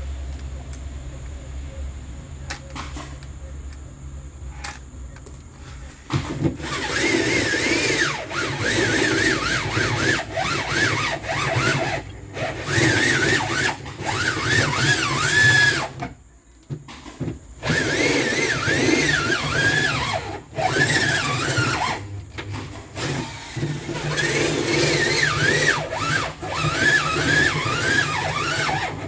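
Electric drill boring into the body of a freezer, running in four bursts of several seconds each with a wavering squeal as the bit cuts. The first few seconds hold only a low hum and a few faint clicks.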